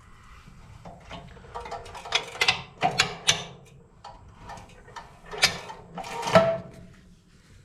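Scattered light knocks and clinks, a few ringing briefly, from hands handling parts and tools on an old chipper shredder while it is being worked on.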